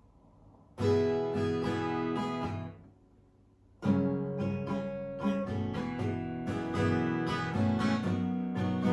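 Acoustic guitar strummed: one chord rings for about two seconds and fades out, then after a short pause steady strumming starts and carries on.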